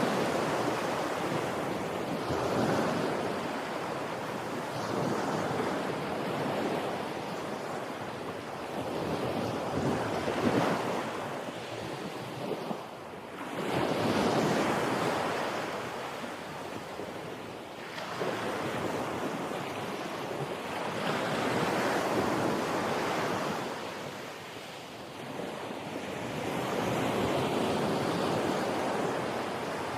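Ocean waves washing onto a shore, the rush of water swelling and falling back every few seconds.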